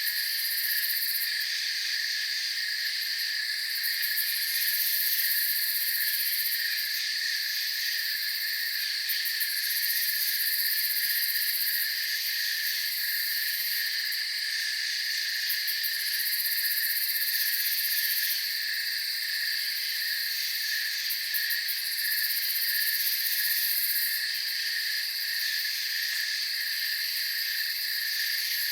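Night chorus of crickets and other insects: continuous trilling at several pitches, with a very high-pitched layer that swells and fades every few seconds.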